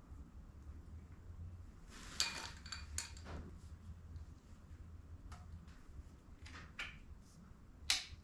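Metal tools clinking and clicking as they are handled and set down, a few scattered knocks, the sharpest about two and three seconds in and near the end, over a low steady hum.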